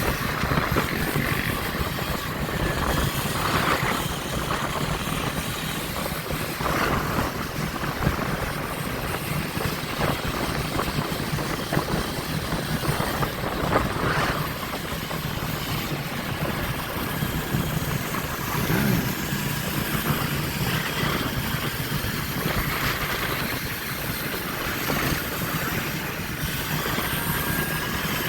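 Motorbike and dirt bike engines running among a group of riders, over a steady rushing noise, with a few brief swells in engine sound.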